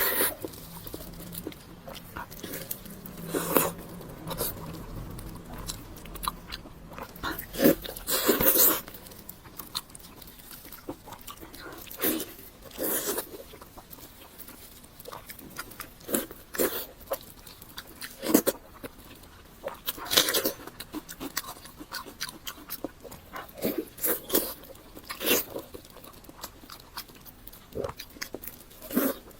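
Close-miked eating: crunchy bites and chewing, at an irregular pace with louder bites every few seconds.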